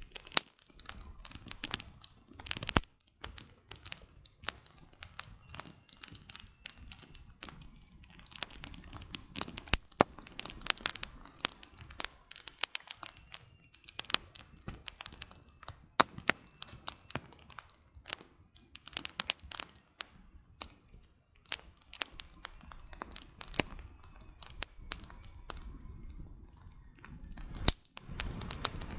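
Campfire of burning firewood crackling, with many irregular sharp pops and snaps over a soft hiss.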